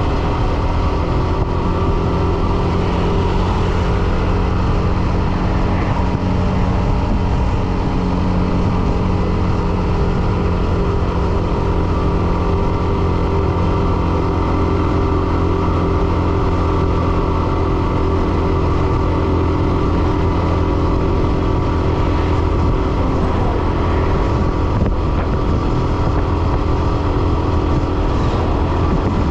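Hero Xtreme 125R's single-cylinder engine running at a steady speed while the motorcycle is ridden.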